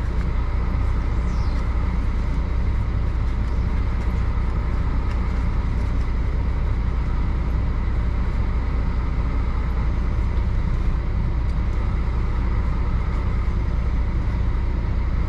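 Truck engine idling: a low, even hum that holds steady throughout.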